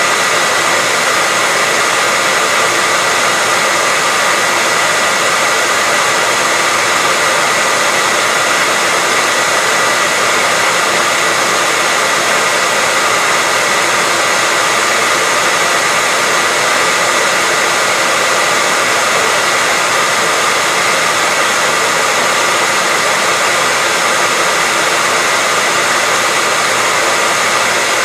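Hair dryer running continuously at a constant setting: a loud, steady rushing hiss with a steady high whine, unchanging throughout.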